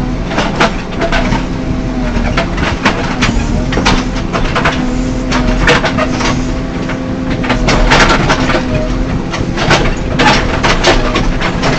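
JCB 3CX backhoe loader's diesel engine running steadily under load, with frequent irregular sharp knocks and clanks of the working equipment.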